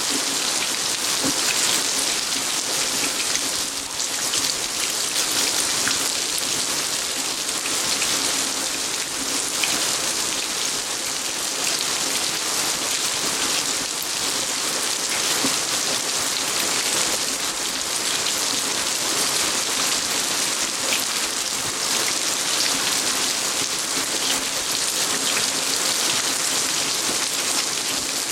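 Steady rain falling on a garden, a dense even hiss of drops with scattered individual drip ticks.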